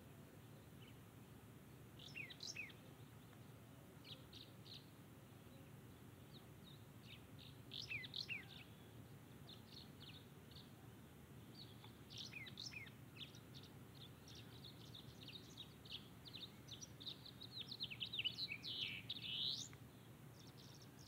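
Birds chirping in scattered bursts of short, high notes and quick falling trills, busiest near the end, over a faint steady low background noise.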